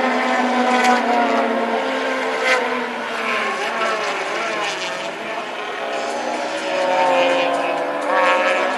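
Racing engines running on track, several engine notes rising and falling together as vehicles accelerate and pass.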